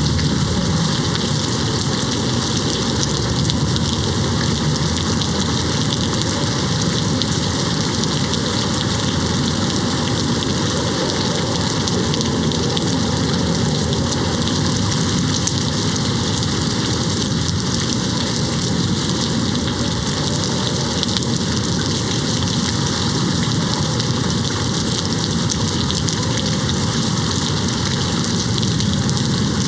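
Steady rain falling on a window, an even, unbroken hiss.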